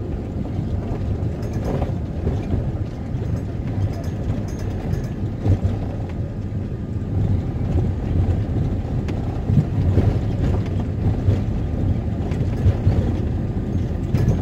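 Camper van on the move: a steady low rumble of engine and road noise, with wind buffeting the microphone.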